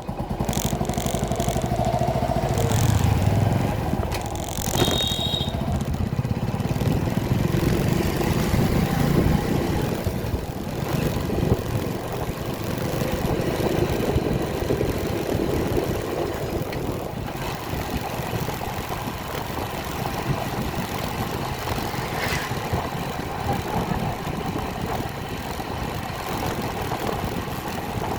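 Motorcycle engine running steadily during a ride. A short high beep sounds about five seconds in.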